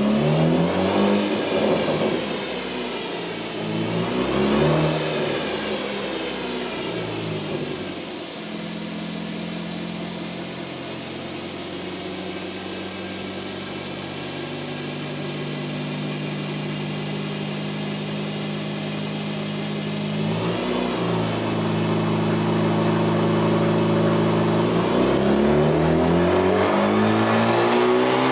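Honda Civic Type R FL5's K20C1 turbocharged four-cylinder breathing through a Milltek valved exhaust, running on a chassis dyno. It revs up twice in the first few seconds, holds a steady speed for about twelve seconds, blips briefly, then from about twenty-five seconds in climbs steadily through the revs in a pull, with a high whine rising and falling with the engine.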